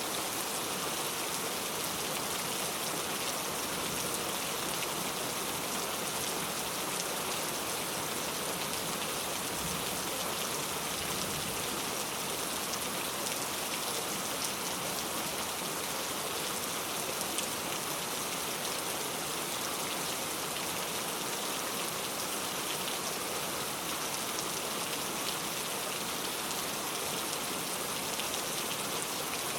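Steady rainfall, an even hiss of many drops pattering on surfaces, unchanging throughout.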